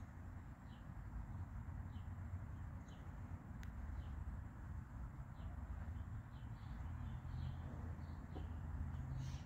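Small birds chirping, short high notes repeating roughly once a second, over a low steady outdoor rumble. One sharp click about three and a half seconds in.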